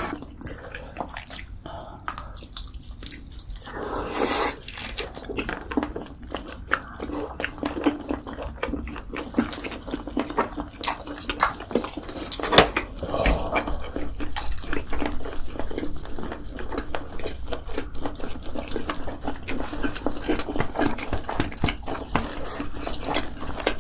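Close-miked eating sounds: someone chewing with a rapid run of small wet smacks and clicks, thickening a few seconds in, with an occasional louder click.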